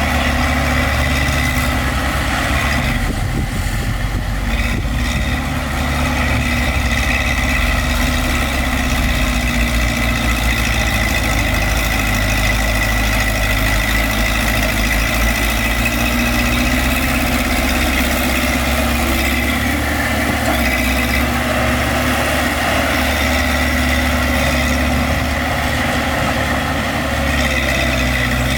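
Heavy earthmoving machine's diesel engine running steadily at low revs: a low rumble with a steady high whine over it.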